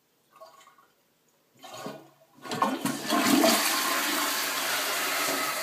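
Toilet flushing: after a couple of short faint sounds, water rushes loudly into the bowl from about two and a half seconds in and keeps running steadily.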